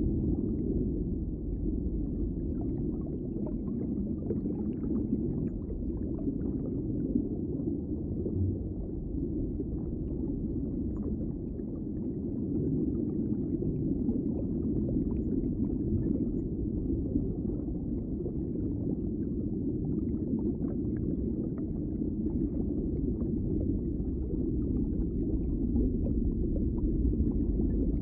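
Underwater ambience: a steady muffled low rumble with faint scattered crackles.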